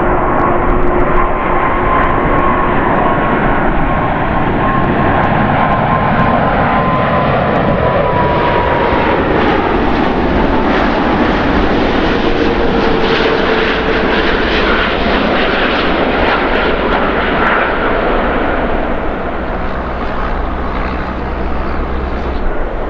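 Four-engined Airbus A340-600 jet airliner on landing approach, its engines giving a loud, steady roar with a whine that slowly falls in pitch as it goes by. The roar eases slightly near the end.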